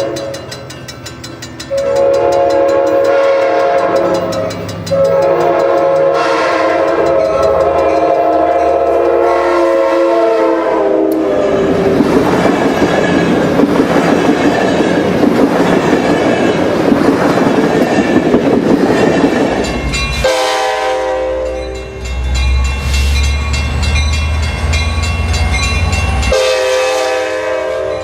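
Train horn sounding in long multi-tone blasts, then the loud rush and rumble of a train passing on the rails, with two more horn blasts, a short one about two-thirds in and one near the end.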